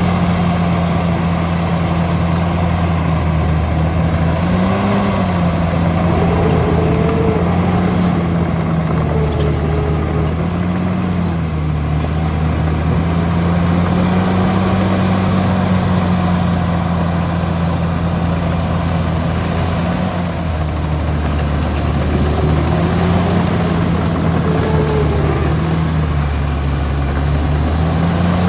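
Heavy diesel engine of an earthmoving machine running steadily, its pitch rising briefly several times as it takes load and then settling back.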